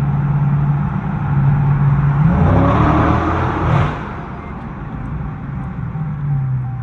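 Dodge SRT 392's 6.4-litre HEMI V8, with its mufflers deleted, running under way. The engine revs up from about two seconds in, then drops back suddenly just before four seconds and settles to a steady lower drone.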